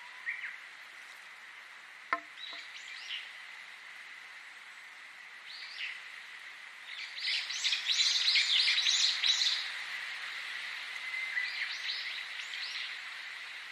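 Birds chirping and calling in short high phrases, building to a dense burst of rapid chirps about halfway through, then a few more calls near the end. A steady faint high tone and soft hiss run underneath, and a single sharp click sounds about two seconds in.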